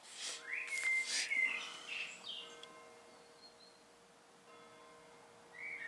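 A songbird singing short whistled notes that slide upward, a burst in the first two seconds and another near the end, over a faint steady hum. A couple of brief paper rustles near the start.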